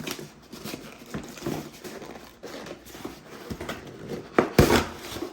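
Gift-wrapping paper rustling and crinkling as a present is unwrapped, with a louder rustle about four and a half seconds in.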